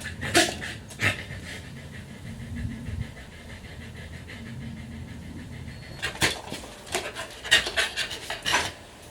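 A dog panting in short, quick breaths. The panting is loudest at the start and again over the last three seconds, and quieter in between.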